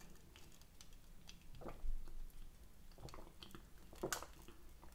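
Close-miked eating sounds: chewing and wet mouth noises, with a few short soft clicks and knocks about two, three and four seconds in.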